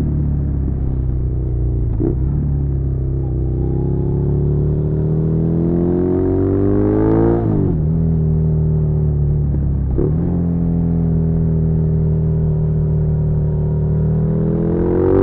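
Suzuki SV650's 90-degree V-twin engine pulling under load on a ride. The revs climb steadily for several seconds and then fall sharply at an upshift, with quicker dips at shifts about two seconds in and about ten seconds in, and another climb near the end.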